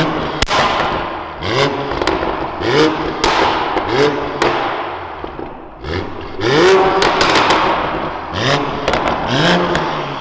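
Toyota Supra with an aftermarket valved racing exhaust, revving hard under acceleration. The engine pitch climbs and breaks off again and again, with sharp cracks from the exhaust between the climbs.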